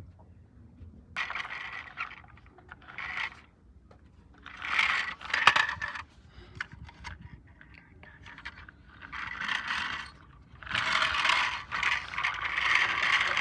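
Bursts of scraping and rattling from small hard objects, several separate stretches with a few sharp clicks among them; the last stretch runs longest.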